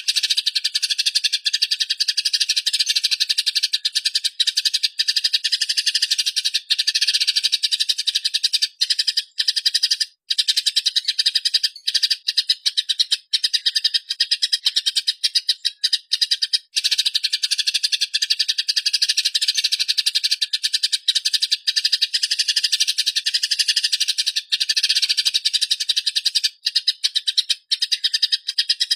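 Eurasian tree sparrow giving its agitated fighting call: a fast, continuous rolling chatter, broken only by a few split-second pauses.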